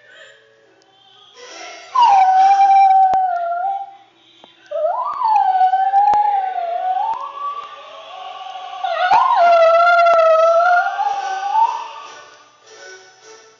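Dog howling along to an operatic aria: three long, wavering howls, the second sliding up in pitch at its start, over the music playing more quietly underneath.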